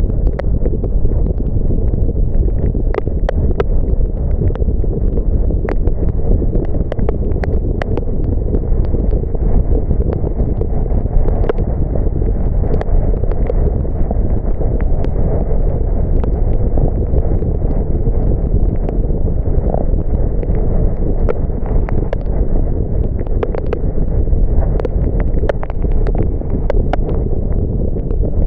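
Steady low rumble of road and wind noise from a car driving in the rain, with many irregular sharp ticks of raindrops hitting the car.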